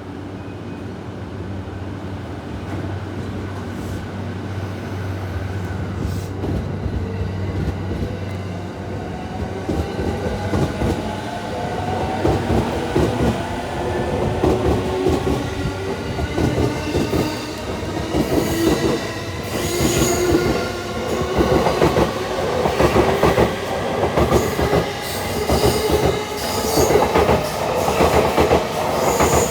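An E217-series electric commuter train pulls away. A steady low hum for the first several seconds gives way to electric-motor whine climbing in pitch as it accelerates. The sound grows louder, with wheels clattering over rail joints and some wheel squeal.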